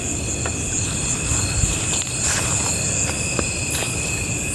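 Night insects, crickets among them, chirping in a steady chorus: continuous high trills, one pulsing in short even beats, with a few faint clicks.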